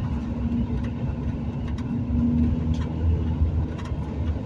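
Vehicle driving along the road: a steady engine and road-noise rumble with a low hum.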